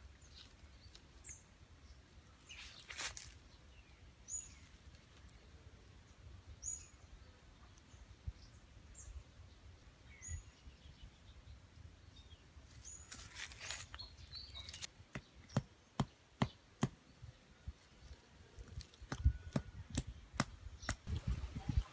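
A small bird giving short, high single chirps every couple of seconds. In the second half, a run of sharp clicks and taps comes from hands working a stick into the ground among dry leaves and grass.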